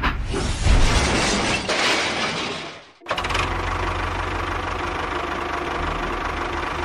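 A motor or engine running, noisy and rough at first; it cuts off abruptly about three seconds in and a steady, evenly pulsing engine sound takes over.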